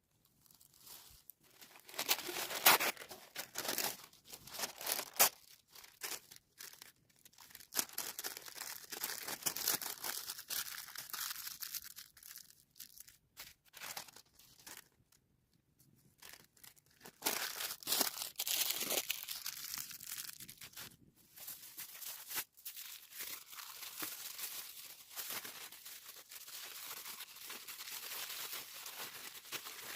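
Irregular rustling and tearing noises in bouts, with a few sharp crackles and brief pauses in the middle.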